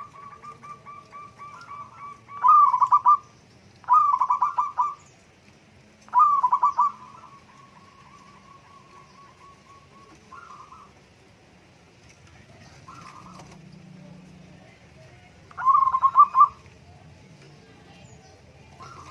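Zebra doves (perkutut) cooing: soft, fast runs of notes, and loud, stuttering coo phrases about two and a half, four and six seconds in, then again near sixteen seconds.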